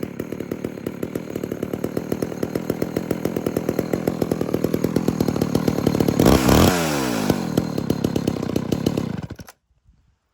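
1998 Homelite Super XL two-stroke chainsaw idling after a cold start, with a quick rev about six seconds in; it runs well. The sound cuts off suddenly near the end.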